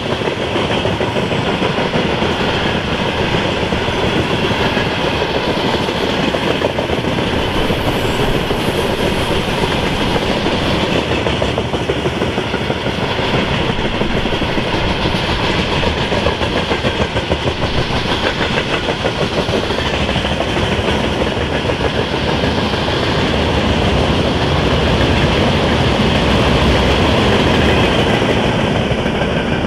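Freight train wagons, open gondolas and boxcars, rolling past at speed: a steady loud rumble of steel wheels on rail with rapid clicking, swelling a little a few seconds before the end.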